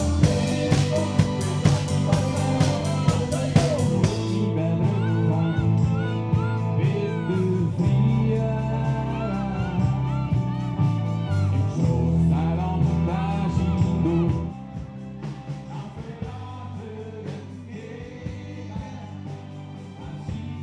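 Live rock band playing a song with a singer and guitar. Drums hit hard in the first few seconds, then the voice and instruments carry on, and the music drops to a quieter passage about fourteen seconds in.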